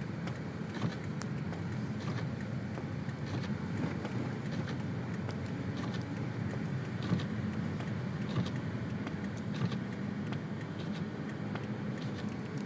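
Inside a car driving through deep snow: the steady low rumble of the engine and tyres, with scattered faint clicks.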